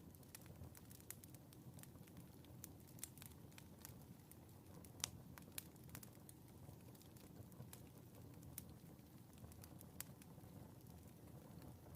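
Faint fireplace fire crackling: scattered sharp pops and snaps over a steady low rumble, with the loudest pop about five seconds in and another near ten seconds.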